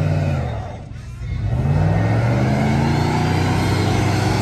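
A loud truck engine running, which fades briefly about a second in, then revs up in pitch and holds at a steady high rev.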